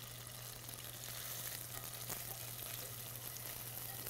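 Thin salmon scallopini sizzling in a little oil in a hot cast iron pan: a steady frying hiss, a little louder after about a second in.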